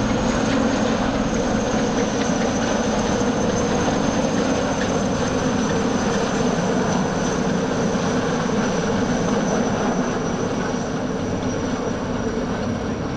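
A formation of IAR-330 Puma helicopters flying, with steady rotor and engine noise and a high turbine whine that slowly sinks in pitch.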